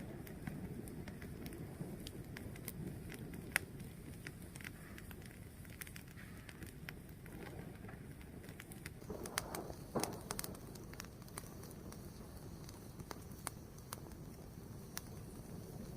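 Fire burning with a low steady rumble and scattered sharp crackles and pops, several of them louder about ten seconds in.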